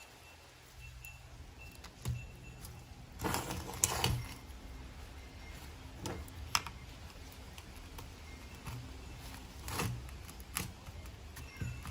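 Intermittent clicks, knocks and clinks of tools and metal parts being handled during a rotary hammer drill repair, with a short burst of clattering about three to four seconds in.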